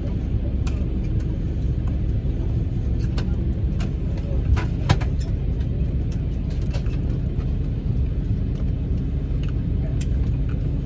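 Steady low drone inside an Airbus A220-300 cabin on the ground, with several held hum tones, and a scattering of short sharp clicks and taps.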